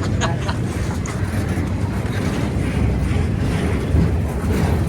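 A train passing with a steady low rumble, with a few faint clicks in the first half second.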